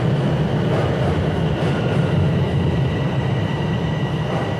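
Toronto Rocket subway train pulling in alongside the platform and slowing to a stop: a loud steady low rumble with a thin, steady high whine over it.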